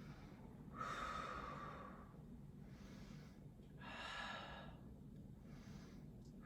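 A person breathing audibly, two long, slow breaths, one starting about a second in and one about four seconds in, as in a deep breath held through a yoga pose.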